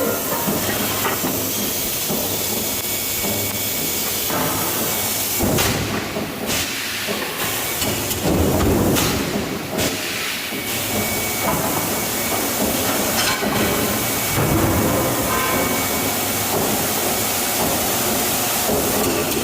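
Hot forging press for nuts running, a steady loud hiss over mechanical rumbling and clatter; the hiss drops out briefly a few times.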